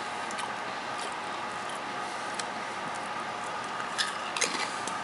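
A crunchy popped-corn chip being bitten and chewed, with scattered crisp crunches that are sharpest about four seconds in, over a steady background hum.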